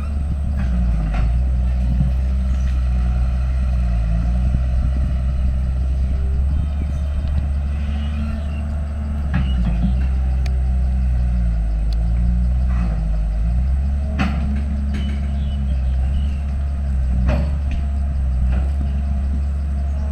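Heavy diesel engine of earthmoving machinery running under load, its note rising and falling as the work varies, with a few sharp metallic clanks scattered through.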